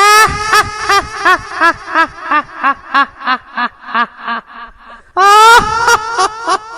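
High-pitched laughter sound effect: a run of rhythmic 'ha' pulses about three a second that fade away, then the laugh starts again loudly about five seconds in.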